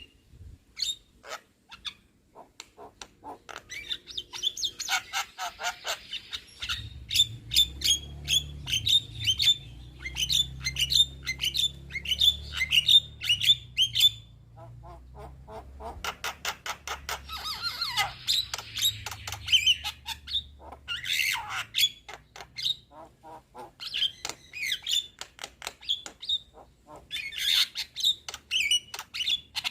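Young Javan myna singing a fast, chattering song of sharp clicks and squawks in long runs, with brief pauses about two seconds in and midway.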